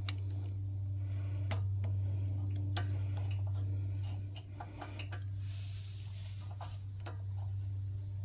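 Scattered light clicks and clinks of metal tools and small parts being handled, over a steady low hum.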